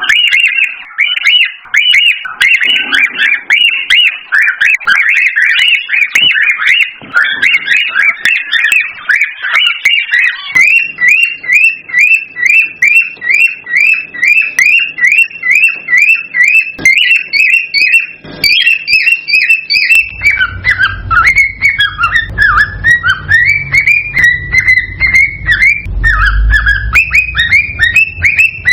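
Cockatiels whistling and chirping rapidly and loudly. About a third of the way in the calls settle into a regular string of short whistled notes, about three a second, then turn choppier again. A low rumble runs under the last third.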